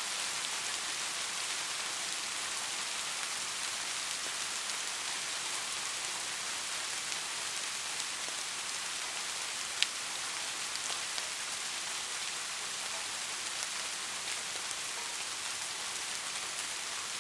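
Steady rain falling, an even patter of many drops, with one sharp tick a little past halfway.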